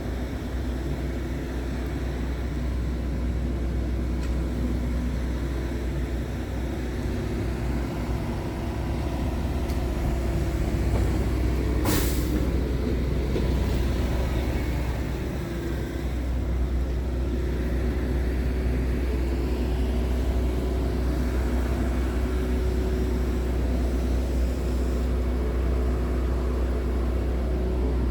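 Scania R tractor unit's diesel engine running steadily, with a short sharp hiss of released air about twelve seconds in.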